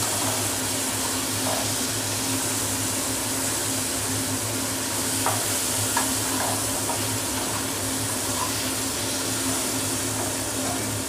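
Prawns coated in salt and turmeric sizzling steadily in hot mustard oil in a kadai as they are turned and lightly fried. A few light clicks of the spatula against the pan come near the middle. A low steady hum runs underneath.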